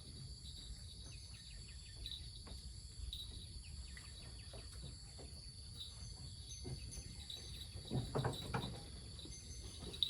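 Steady chorus of crickets and other insects, a continuous high trilling, with faint ticks and rustles and a short cluster of louder knocks or rustles about eight seconds in.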